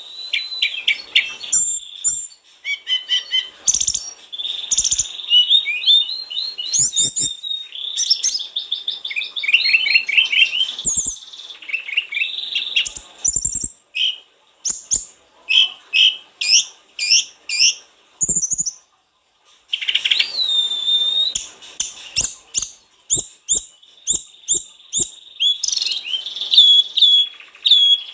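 Sulingan gunung songbird singing vigorously in long runs of high, thin whistles and rapid chirped notes, with a short break near the middle and a few sharp clicks among the phrases.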